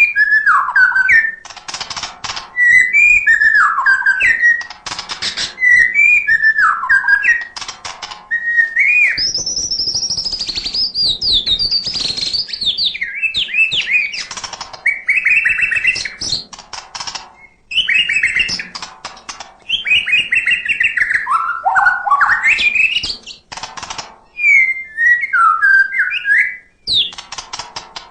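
White-rumped shama (murai batu) singing a loud, varied song: rapid whistled phrases that glide up and down in pitch, broken by short runs of harsh clicks.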